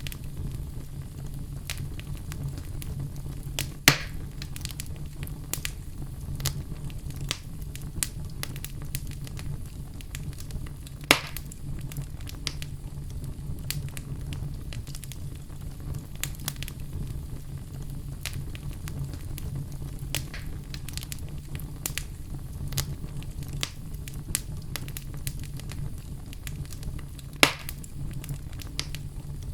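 Oak logs burning in a fireplace: a steady low rumble of the flames with constant scattered crackles and three loud sharp pops, about 4, 11 and 27 seconds in.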